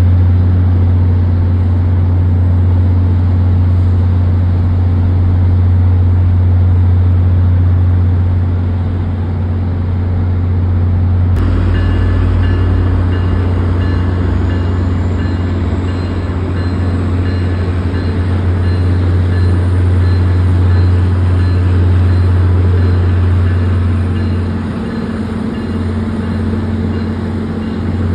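MBTA commuter rail train with a diesel locomotive rolling slowly past, a loud steady low engine drone throughout. About eleven seconds in the sound shifts abruptly and faint high ringing tones join.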